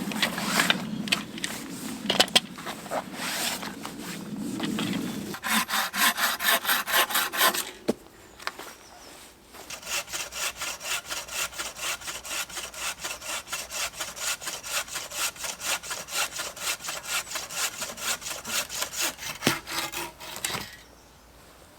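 Hand saw cutting through a chestnut pole. Uneven strokes come first, then a short fast run, a brief pause, and a long run of even back-and-forth strokes that stops just before the end.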